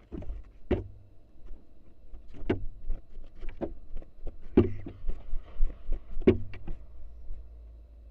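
Barn owl nestling flapping its wings inside a wooden nest box: a series of irregular thumps and knocks as the wings and body strike the box. The knocks are loudest and closest together about halfway through.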